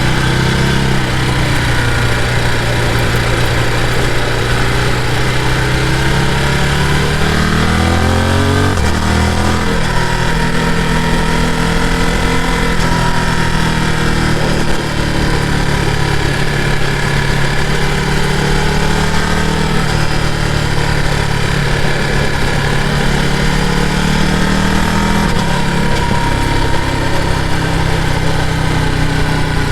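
Ducati Multistrada V2S's V-twin engine running steadily on the move. Its revs climb for a couple of seconds, then drop suddenly at a gear change about nine seconds in, and ease down again later.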